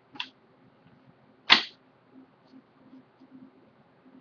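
Two short, sharp clicks from trading cards being handled: a light one just after the start, then a louder snap about a second and a half in.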